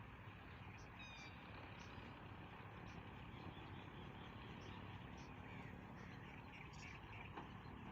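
Faint outdoor ambience with small birds chirping on and off over a low steady background hum.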